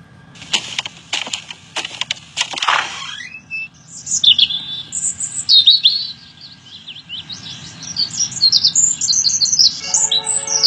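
Small birds chirping and twittering in quick, high calls, starting about four seconds in after a few short swishes of noise. A music bed with steady tones comes in near the end.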